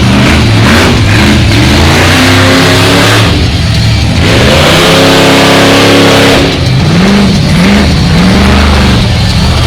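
Monster truck engine revving hard and loud, its pitch climbing and falling repeatedly as the throttle is worked, with a long climb midway and quick up-and-down revs near the end.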